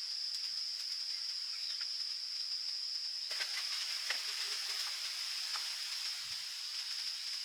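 A steady, high-pitched drone of insects. A hiss thickens about three seconds in, with a few faint clicks.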